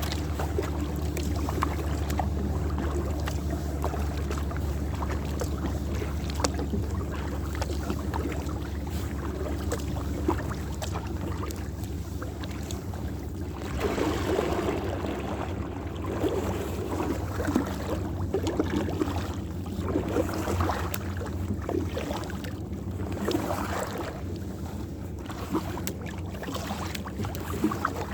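Water splashing and lapping around a kayak on a lake, with irregular splashes over a steady low hum.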